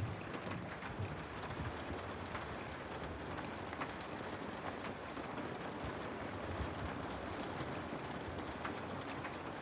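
Steady rain, a dense even hiss with many small drop ticks scattered through it, the sound of rain falling on a window.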